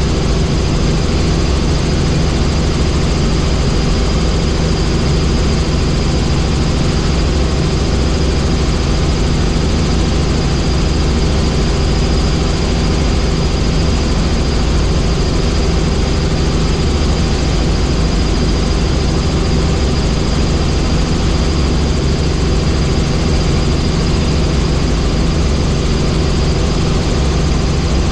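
Helicopter in flight: the engine and rotor make a steady, loud hum and rush that holds at one level throughout.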